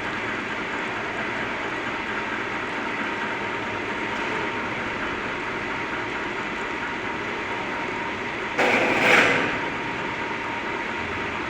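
Steady industrial din of a copper-melting furnace shop with a faint high hum. About eight and a half seconds in, a sudden louder rush of noise lasts about a second.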